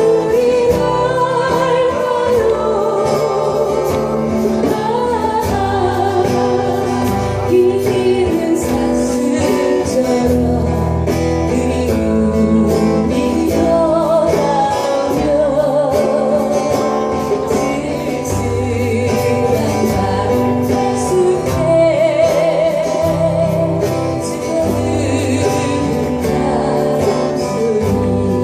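Live band playing a song: a vocalist singing with vibrato over guitar and bass accompaniment.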